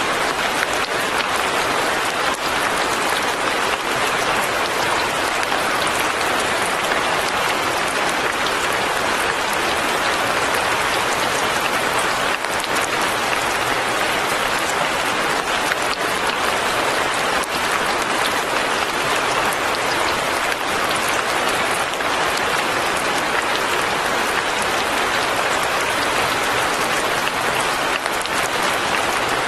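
Steady light rain falling, a constant even hiss of many small drops pattering on surfaces.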